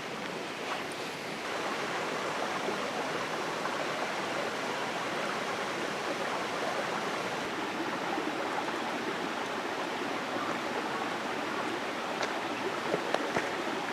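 Steady rain falling: a dense even hiss that grows a little louder about a second and a half in, with a few light taps near the end.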